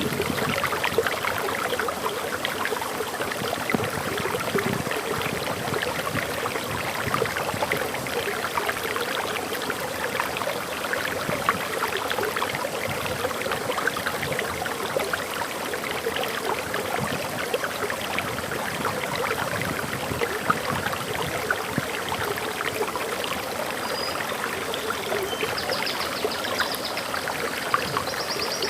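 Waterfall: water pouring and splashing steadily, with a few faint high bird chirps near the end.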